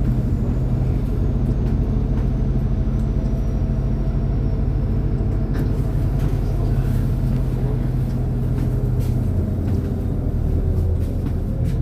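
MAZ-203 city bus's diesel engine running steadily, heard from inside the passenger cabin, with a faint high whine that slowly falls in pitch and a few light knocks and rattles.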